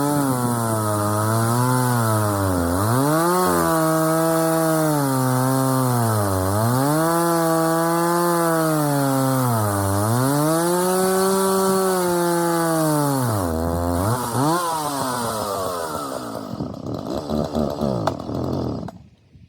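Husqvarna 136 two-stroke chainsaw cutting wood, its engine speed sagging and recovering every few seconds as it bogs, typical of the carburetor or air trouble the owner suspects. Near the end it runs rough and uneven, then cuts off suddenly.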